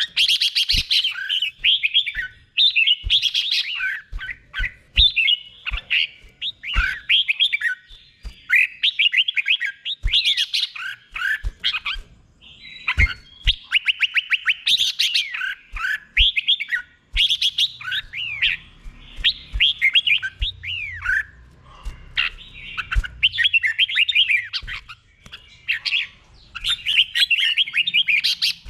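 Red-whiskered bulbul song: bright whistled phrases, many sliding down in pitch, one after another with short gaps. Faint low knocks sound here and there underneath.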